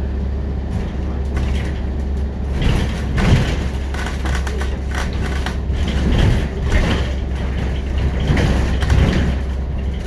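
Inside a Scania CN94UB Omnicity city bus: the Scania DC9.01 diesel engine runs with a steady low drone, while the body and fittings rattle and knock several times from a few seconds in, the loudest about three seconds in.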